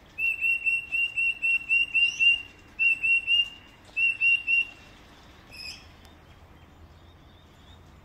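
A bird calling: a fast series of loud, short, repeated high chirps, about five a second, in three runs, followed by a single different call a little after halfway.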